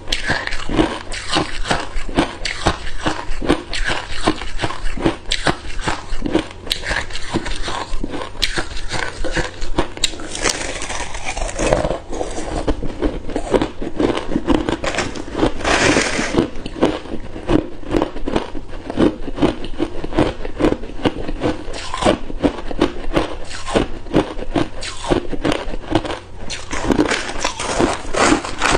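Hard ice cubes crunched between the teeth close to the microphone: a rapid, unbroken run of sharp cracks and crunches, with louder bursts of crushing about ten and sixteen seconds in.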